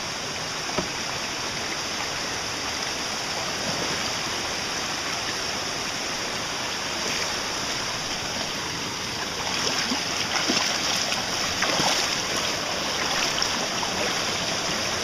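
River water flowing with a steady rush, growing a little louder with brief splashes from about ten seconds in.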